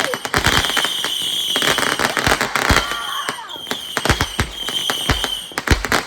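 Fireworks going off in a rapid string of sharp cracks and pops, mixed with several deeper booms. A steady high-pitched whistle runs through most of it.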